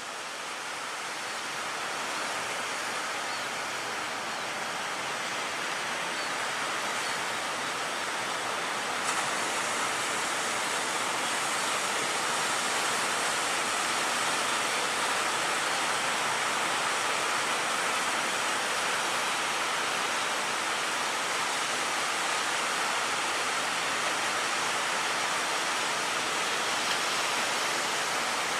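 Steady, unbroken rushing noise of heavy surf and wind at the shore.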